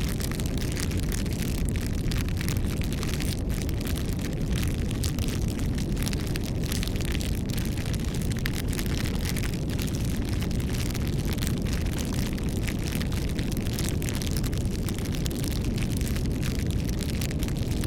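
Campfire burning steadily, a low rumble of the flames with many small crackles and pops of burning wood throughout.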